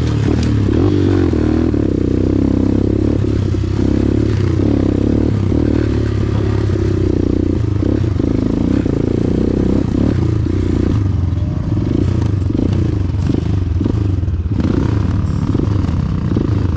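Motorcycle engine running under load up a steep dirt track, the engine note rising and falling with the throttle, with frequent rattles and knocks from the bike over the rough ground.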